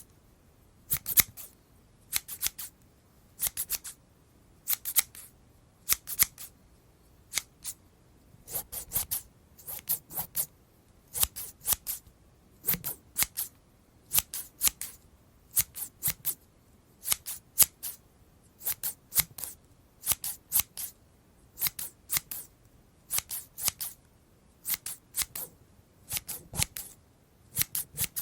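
Scissors snipping in short clusters of two or three quick cuts, roughly once a second, crisp and close.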